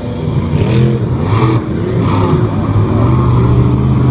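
A vehicle engine revving loudly, its pitch rising and falling several times over a steady running note.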